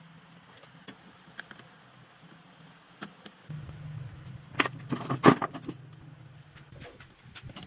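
Small metal parts clinking and rattling, loudest about five seconds in, over a low hum that starts partway through.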